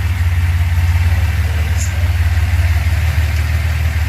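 1970 Datsun 240Z's freshly rebuilt L24 straight-six idling steadily during carburettor tuning. The twin SU-type carburettors are set lean, which the owner hears as a little hesitation.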